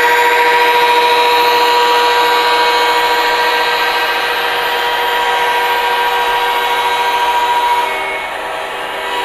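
MTH Premier Genset model diesel locomotive's electronic sound system sounding a long horn note, held steady for about eight seconds and stopping near the end, over the steady whir of the running model train.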